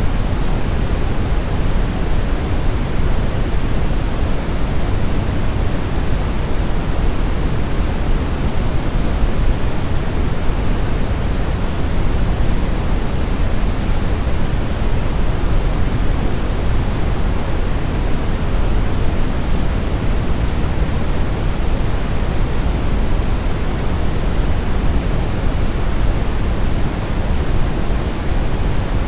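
Steady synthetic brown noise: a constant, even hiss-like rush weighted toward the low end, with no changes.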